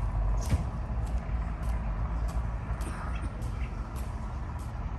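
Footsteps of a person walking on pavement, about one and a half steps a second, over a steady low outdoor rumble.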